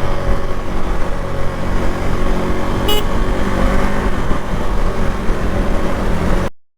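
KTM Duke 390 Gen 3's single-cylinder engine running steadily through its stock exhaust, with a brief horn toot about three seconds in. The sound cuts off suddenly near the end.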